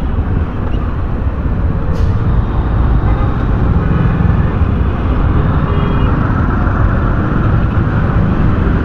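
Steady road noise from riding a motorcycle in city traffic: the engine and passing vehicles make a continuous low rumble, with a brief click about two seconds in.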